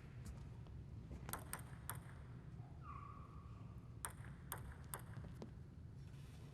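Table tennis ball bouncing with light, ringing clicks in two quick runs of three, about half a second apart. A brief faint steady tone sounds between them.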